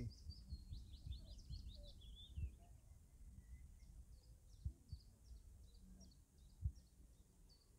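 Faint small-bird chirping and twittering, many short quick calls, over a low rumble, with a few soft knocks.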